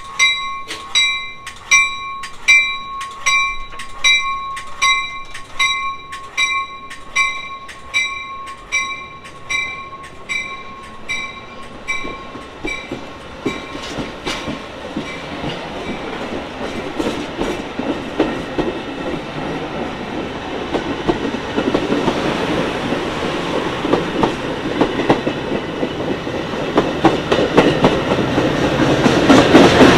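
Metra commuter train pulling out: a bell rings about one and a half strikes a second and fades away over the first half. The rumble of the bi-level cars rolling past grows steadily and is loudest near the end, as the diesel locomotive pushing at the rear draws near.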